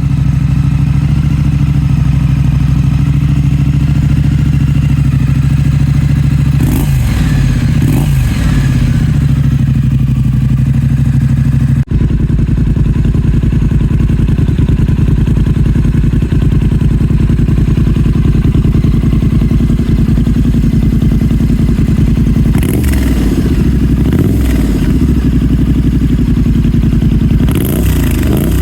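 Triumph 900 Scrambler's parallel-twin engine running through a Hitchcox aftermarket exhaust. It idles steadily and is revved briefly twice around seven to eight seconds in, then blipped repeatedly in the last several seconds.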